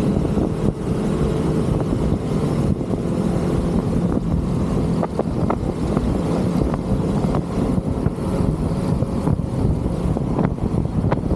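Motorcycle running steadily at cruising speed, its engine hum mixed with a dense low rush of wind and road noise. A few faint ticks sound about five seconds in and again near the end.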